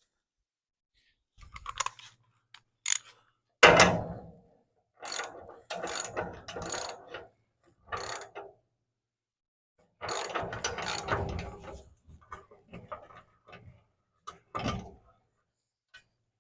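Ratchet wrench clicking in several short, uneven runs, working a bolt on a car rotisserie mount loose.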